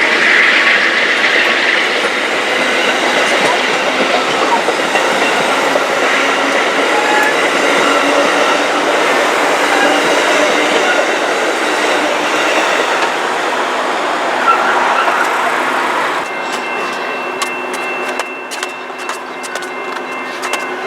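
Train passing on the tracks: a dense, steady rush of wheel and rail noise that drops off about sixteen seconds in, leaving a steady high tone with a run of sharp clicks.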